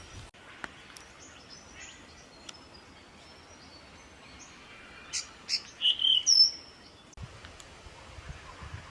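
Small birds calling: faint high chips and twitters, then a louder run of sharp calls ending in a high whistle about five to six and a half seconds in.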